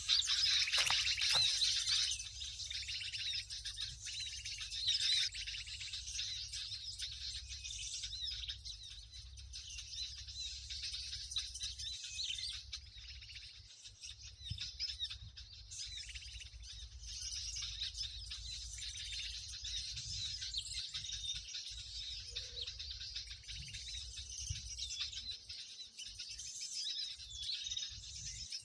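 Many small birds chirping and calling at once in a dense, continuous commotion, the kind of noisy mixed-flock chorus played as a lure to draw birds onto lime sticks. A faint low steady hum lies underneath and drops away near the end.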